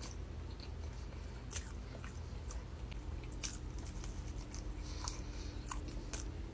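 Close-up mouth sounds of someone chewing food, with scattered short wet clicks and smacks.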